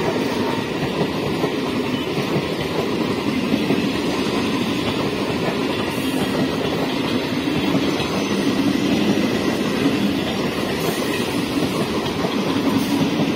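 Electric multiple unit (EMU) local train passing close by at speed, its wheels clattering steadily over the rails as coach after coach goes past.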